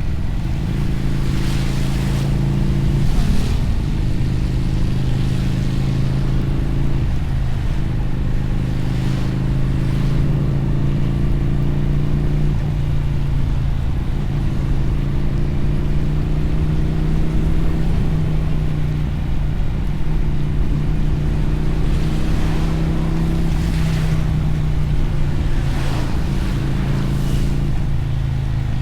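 Motorcycle engine and exhaust heard from the rider's seat while riding, its pitch climbing slowly and then dropping several times as the throttle changes and gears shift. Wind and a hiss of spray come and go over it.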